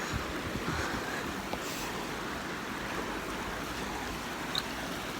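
Steady rushing of a river flowing, an even wash of water noise.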